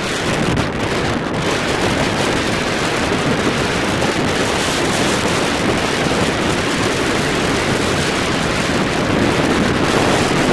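Strong wind blowing across the microphone: a loud, steady rush that does not let up.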